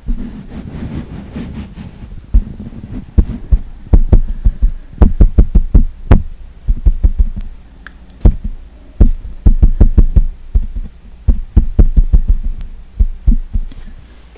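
A makeup tool dabbing and tapping directly on the microphone: a soft rubbing at first, then loud, irregular clusters of quick, heavy-bottomed taps and thumps.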